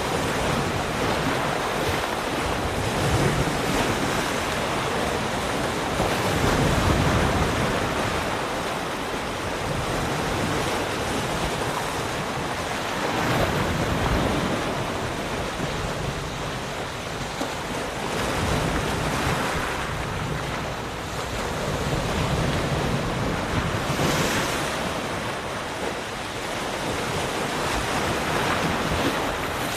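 Ocean waves breaking and washing on a shore, a continuous rushing wash that swells and falls back every few seconds, with some wind.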